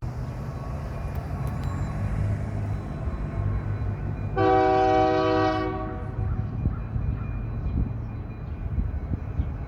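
Diesel locomotive horn sounding one chord blast of about a second and a half, partway through, over the steady low rumble of the locomotive's engine.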